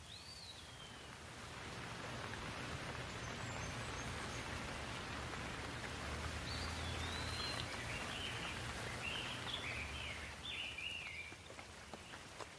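Rain falling in a steady hiss that swells after a second or two and eases near the end, with birds calling: one falling call at the start and a run of chirps in the middle.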